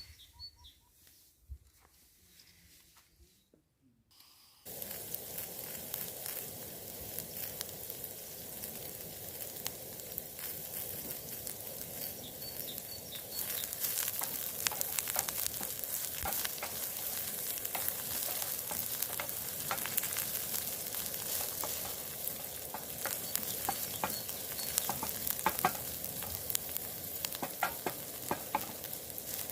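Food sizzling and frying in a hot pan: a steady hiss full of small pops and crackles that starts suddenly about five seconds in, after a quiet stretch with a few faint bird chirps, and grows somewhat louder partway through.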